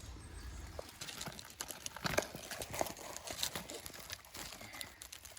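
Irregular crackling and rustling of twigs and leaves as someone pushes through dense undergrowth, with sharper snaps about two to three and a half seconds in.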